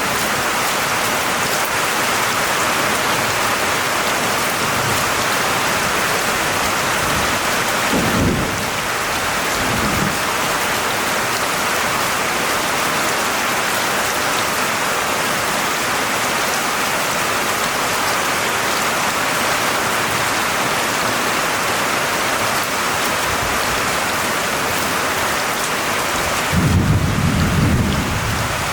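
Steady heavy rain falling, with thunder rumbling low: briefly about eight seconds in, again a couple of seconds later, and louder near the end.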